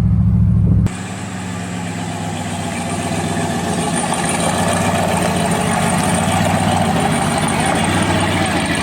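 Engine of a turbocharged Chevrolet Silverado running. About a second in, a deep low rumble gives way abruptly to a brighter, noisier engine sound that grows gradually louder.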